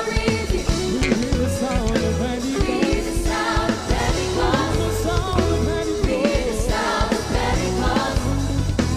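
Choir singing a gospel worship song with live band accompaniment of drums, bass and guitar.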